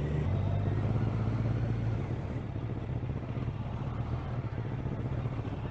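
Kawasaki ER-6n parallel-twin motorcycle engine running steadily while riding, heard from the rider's helmet camera, its note dropping slightly about two seconds in.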